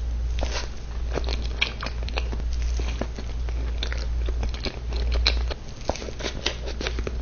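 Close-up mouth sounds of eating: chewing with many small crunchy clicks, over a steady low hum that stops about five and a half seconds in.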